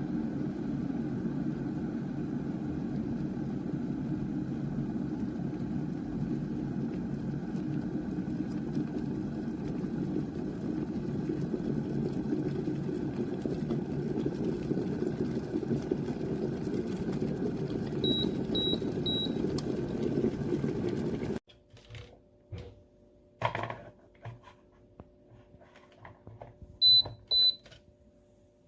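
An ecosa 1,8 l 2200 W glass electric kettle heating water, a steady low rumble of water coming to the boil that grows a little louder, with three short high beeps near the end of the rumble. The rumble then cuts off suddenly, followed by a few clicks and two short beeps from the kettle's control buttons.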